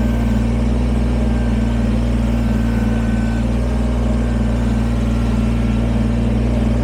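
Kubota BX23S sub-compact tractor's three-cylinder diesel engine running steadily.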